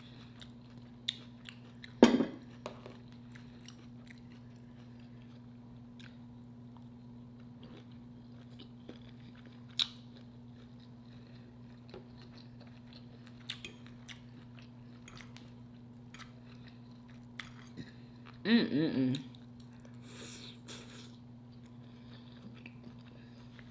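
Close-up chewing and lip-smacking of a person eating a shrimp, sausage and cabbage stir fry, with small wet clicks throughout. A short hummed 'mm' comes about eighteen seconds in, and a faint steady hum sits underneath.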